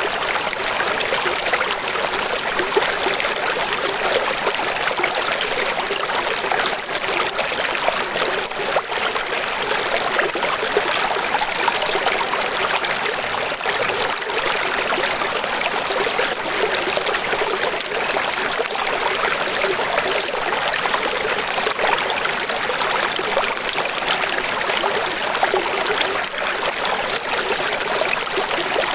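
Running water: a steady, even rush and trickle of a stream or small waterfall.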